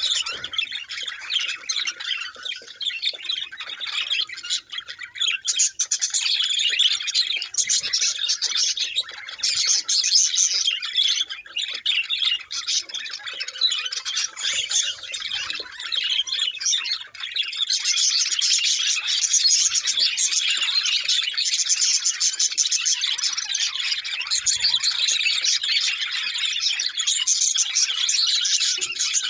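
Budgies (budgerigars) chattering and warbling: a dense, continuous twittering with squawks mixed in, growing busier and louder a little past halfway.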